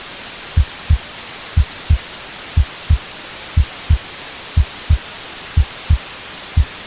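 Heartbeat sound: a double low thump (lub-dub) about once a second, steady and even, over a constant white-noise hiss.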